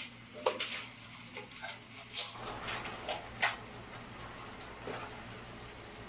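A string of short, sharp clicks and knocks, about eight in the first five seconds, as small plumbing parts and tools are handled.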